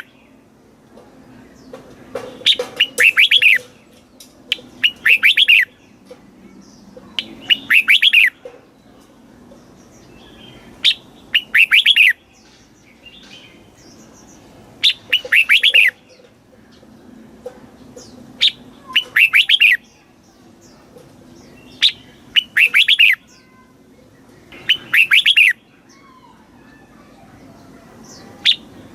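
Red-whiskered bulbul singing, repeating a short phrase of quick, bright whistled notes every few seconds, about nine times.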